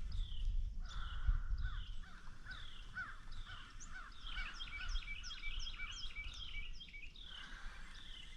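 Birds calling: many short downward-sliding calls, repeated and overlapping, busiest past the middle. A low rumble sits under the first couple of seconds.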